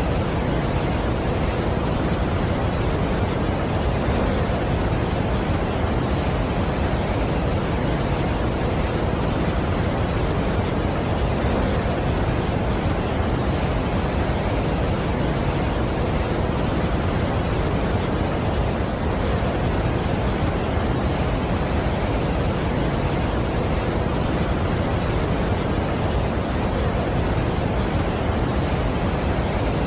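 Steady, unbroken rushing of a large waterfall, Niagara Falls, an even noise heaviest in the low end with no change in level.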